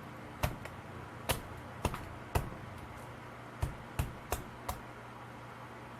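A durian's spiky husk being chopped at to open it: eight sharp knocks, four spread over the first two and a half seconds, then four more in quick succession about a second later.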